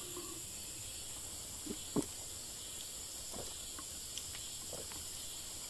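Steady high-pitched chorus of night insects such as crickets, with a few faint clicks about two seconds in and again a little later.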